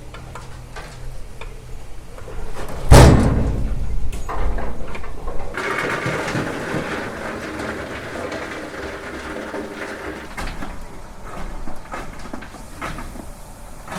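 Knocks and clanks of work around a steam locomotive, with one loud bang about three seconds in, followed from about six seconds by a steady rushing noise.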